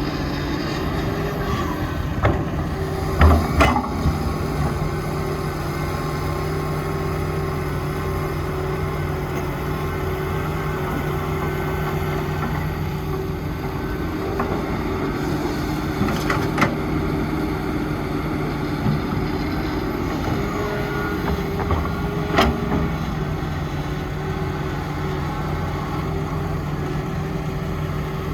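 Heavy diesel engine of construction machinery running steadily, with several short knocks: a cluster a few seconds in and two more later.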